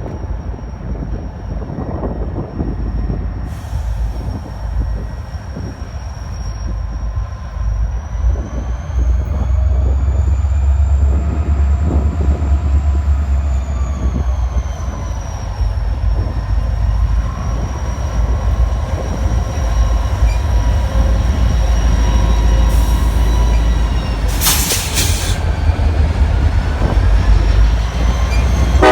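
Two EMD SD40-2 diesel-electric locomotives working as they pull a train of empty tank cars, their 16-cylinder two-stroke engines giving a heavy low rumble that grows louder after about eight seconds. A thin high whine rises and falls in pitch midway through.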